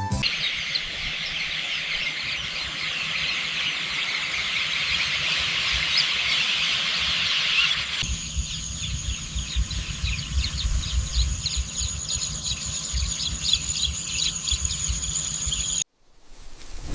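Outdoor countryside ambience: a dense, high-pitched chorus of calls that changes about halfway through to a steady high whine with pulsing chirps, over intermittent low wind rumble on the microphone. It cuts off suddenly near the end.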